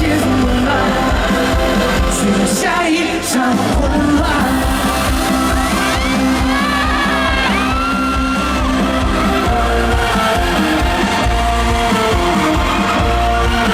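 Live pop concert music: a full band playing while a voice sings, with long sliding notes about halfway through.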